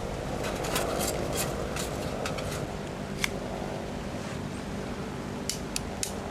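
Steady rain hiss with scattered sharp clicks and snaps: a quick cluster in the first two seconds or so, one louder snap about three seconds in, and three more near the end.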